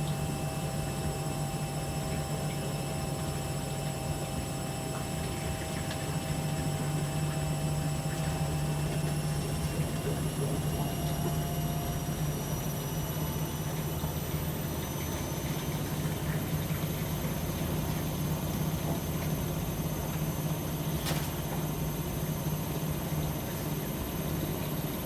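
AEG Öko-Lavamat 73749 washing machine running, a steady hum under the whine of its drum motor; about ten seconds in the motor whine rises slowly in pitch, then holds steady. A single short click near the end.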